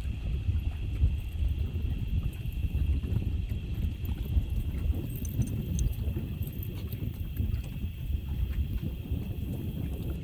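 Strong storm wind buffeting the microphone: a low, uneven rumble that surges and eases with the gusts.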